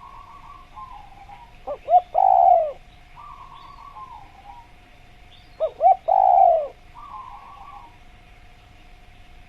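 Spotted dove (tekukur) cooing: two loud calls about four seconds apart, each two short notes and then a longer falling coo, with softer calls between them.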